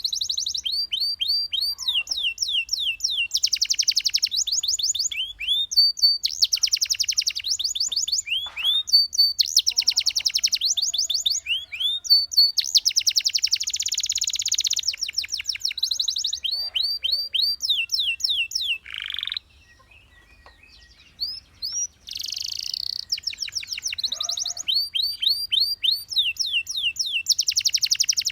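Domestic canary singing: a long song made of fast trills, each a run of rapidly repeated high notes, mixed with falling chirps. About two-thirds of the way through it stops for a couple of seconds, then resumes with the same rapid trills.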